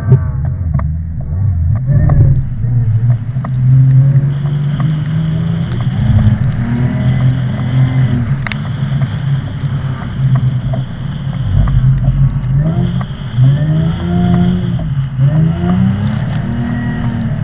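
Car engine on a skid pan, revved hard and falling back again and again in rapid swells of pitch, as when drifting.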